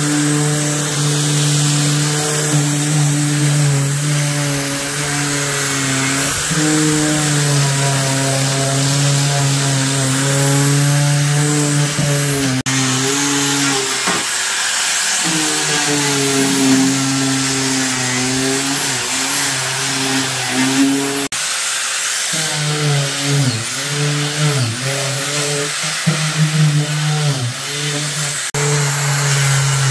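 A handheld electric power tool running, its motor pitch wavering and dipping as it is put under load, with a high hiss over it.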